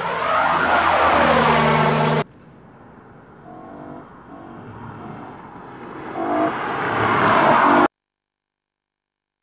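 Sports car passing at speed on a race track, its engine note falling as it goes by, cut off abruptly about two seconds in. A quieter car engine then grows louder as another car approaches, and the sound stops dead near the end.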